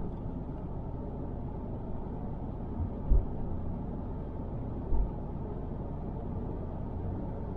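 Steady low road-and-engine rumble of a car heard from inside the cabin while driving, with two short low thumps about three and five seconds in.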